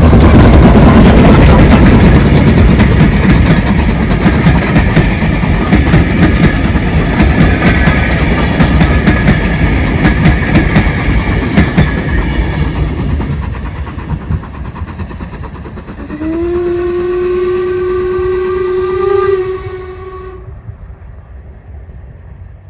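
A steam-hauled train passing close and receding, its wheels clicking over the rail joints as the rumble fades. About sixteen seconds in, a single-pitched whistle sounds for about three seconds, then the train dies away.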